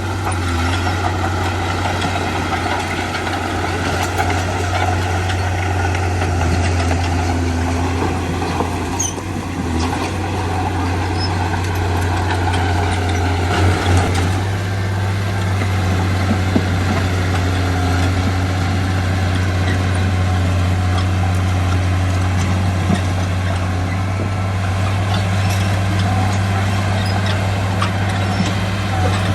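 Heavy diesel engines of construction machinery running steadily, a deep continuous drone whose pitch shifts slightly about halfway through.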